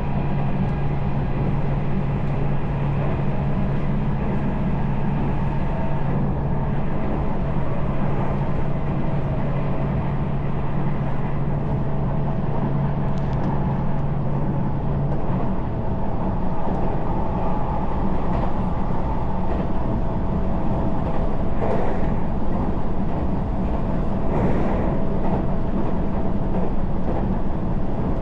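Electric commuter train running, heard from inside the carriage: a steady rumble of wheels on rails. A low motor hum drops away about halfway through, leaving a faint steady whine, and a couple of brief knocks come near the end.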